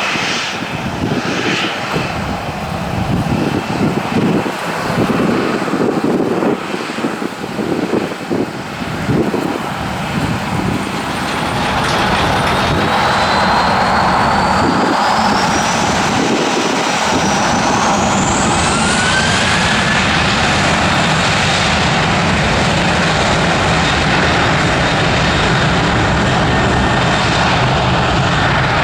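Boeing 737-800's CFM56-7B jet engines running loud. The sound is rough and uneven at first, then grows steadier and louder about twelve seconds in, while a high turbine whine rises in pitch over several seconds.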